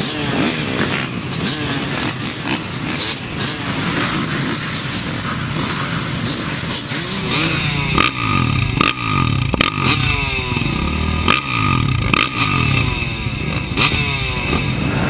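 Motocross bike engines revving hard. From about halfway the engine note climbs and drops again and again, roughly once a second, with sharp clicks and knocks among it.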